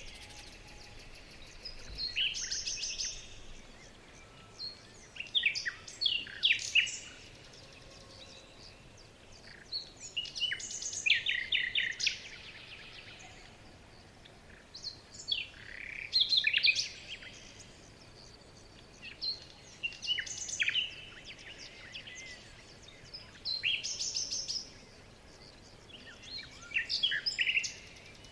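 Songbird singing in short phrases of quick, high chirps and trills, about seven phrases with pauses of a few seconds between them, over a faint steady background hiss.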